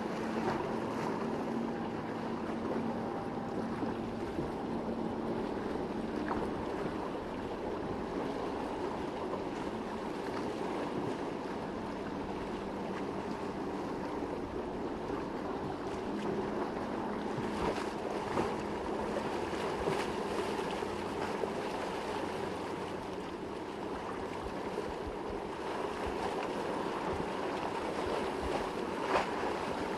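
Boat engines running through a rough inlet, a steady drone that fades after the first several seconds, over wind and breaking waves.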